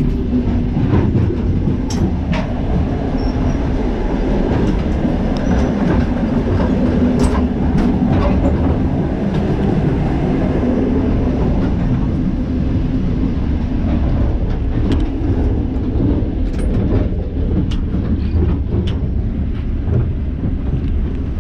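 1950s Soviet sleeper train running along the track: a steady heavy rumble with scattered sharp clicks and knocks from the wheels and carriage.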